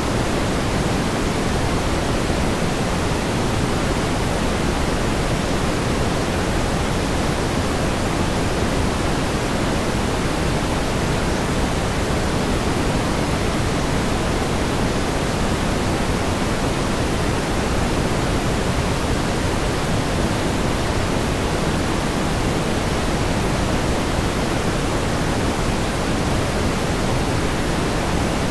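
Steady pink noise: an even hiss, heavier in the low end than the high, that holds the same level without swells or breaks.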